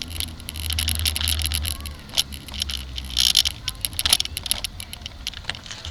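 A bicycle rattling and clicking with many irregular sharp ticks as it rolls over a bumpy surface. A low wind rumble on the microphone fades after about two seconds.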